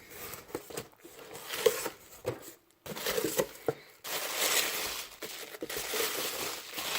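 Paper and packaging crinkling and rustling as a mail-order box is opened and its contents handled, with scattered small taps and clicks at first and a steadier rustle from about halfway through.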